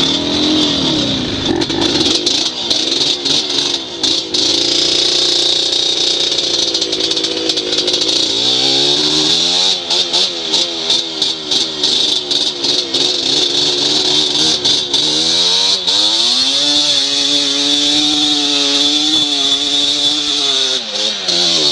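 Dirt bike engine running under changing throttle, its pitch rising and falling repeatedly, with frequent knocks and rattles.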